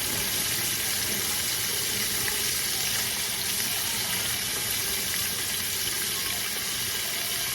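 Chicken wings deep-frying in hot Crisco shortening: a steady, even sizzle.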